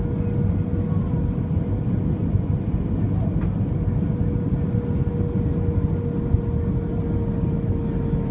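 Steady roar of engines and airflow inside an Airbus A320's passenger cabin during descent, with a thin steady hum running through it.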